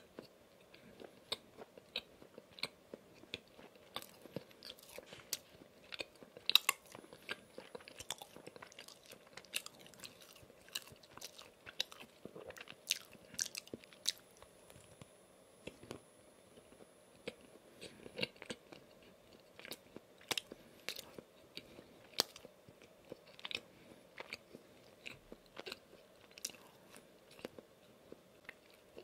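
Close-miked chewing of a soft glazed donut: wet mouth clicks and smacks at irregular intervals, with no talking.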